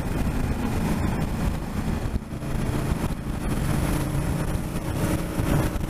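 Motorcycle under way: a steady engine note under wind rush.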